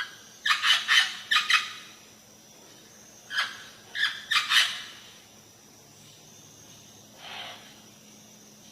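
A bird calling: a run of short, harsh pitched calls, four in quick succession, then three more, and a fainter one near the end.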